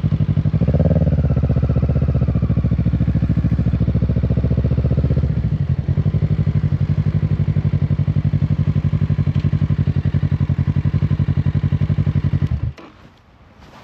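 2025 Kawasaki Z650's parallel-twin engine running at low revs with an even pulse, briefly rising in pitch about a second in. Near the end the engine cuts off abruptly.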